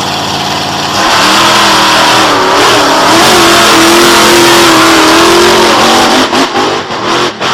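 Big racing engine under hard throttle: it surges about a second in and holds at high revs, then stutters on and off near the end.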